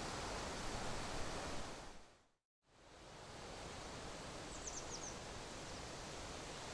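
Steady outdoor rushing noise that fades out to silence about two seconds in and fades back up, with a few faint high bird chirps a couple of seconds later.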